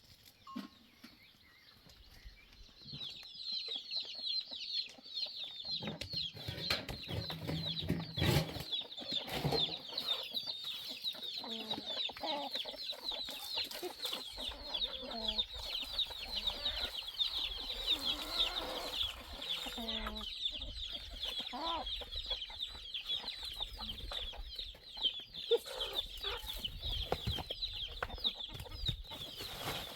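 Chickens: a dense, continuous high-pitched cheeping starts about three seconds in, with lower clucking calls beneath it.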